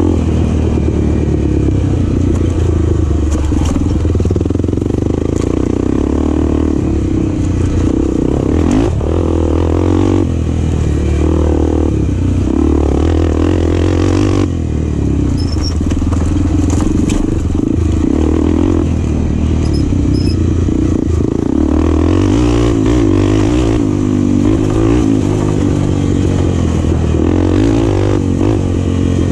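Enduro motorcycle engine running hard and continuously, its pitch wavering up and down with the throttle, with some clatter over rough ground.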